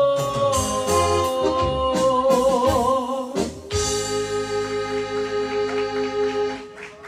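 Live band ending a song on electronic keyboard: a long held note wavers with vibrato over sustained chords, then a final organ-like keyboard chord pulses steadily for about three seconds and stops shortly before the end.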